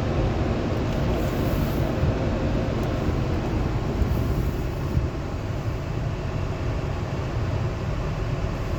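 Automatic car wash running: a steady low rumble of the machinery with a hiss over it, a little brighter twice in the first half.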